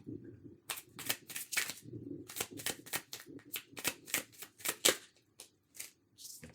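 Tarot cards being shuffled and handled: a run of quick, irregular card clicks and flicks that thins out near the end.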